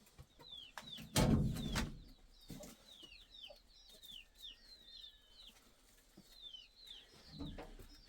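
Birds chirping over and over: short, high, falling chirps. About a second in there is a loud, short noise lasting about half a second.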